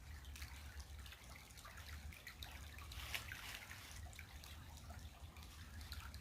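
Creek water trickling and dripping, faint, with small scattered splashes over a steady low rumble.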